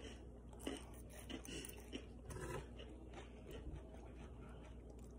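Faint chewing of a mouthful of romaine lettuce salad, with small soft crunches scattered through.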